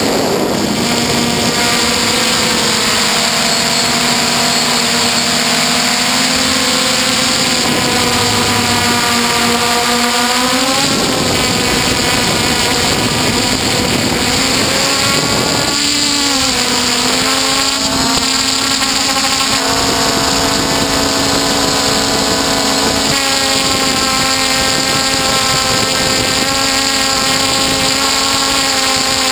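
F450 quadcopter's brushless motors and propellers whining steadily, over a steady rush of air. The pitch dips and rises about a third of the way in and again around halfway, as the throttle changes.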